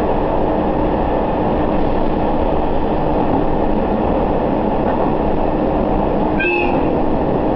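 Steady running noise of a diesel railcar on the move, an even rumble with a faint steady hum. A brief high squeak comes about six and a half seconds in.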